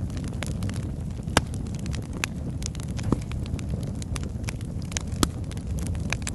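Wood logs burning in a fireplace: a steady low rumble of flame with frequent sharp crackles and pops, two of them louder, about a second and a half in and near the end.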